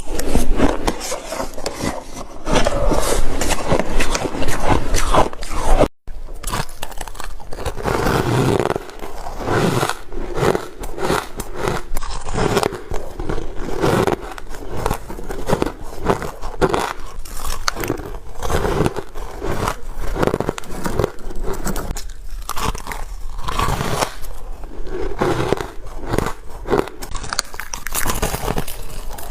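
Close-miked biting, crunching and chewing of spoonfuls of shaved ice: a dense, irregular run of crisp crackles, with a brief break about six seconds in.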